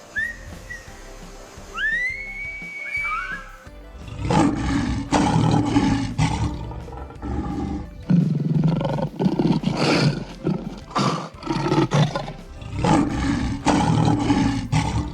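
Big cat roaring, a run of loud, rough roars repeated one after another from about four seconds in. Before that come a few short whistling chirps that rise and fall.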